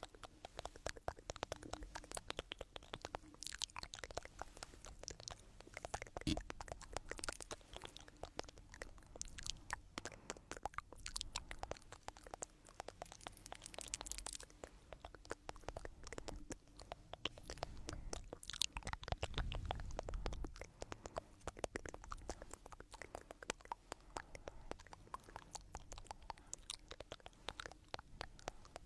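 Close-miked stones rubbed and ground against each other, giving a dense, irregular crunchy crackling and scraping with no steady rhythm.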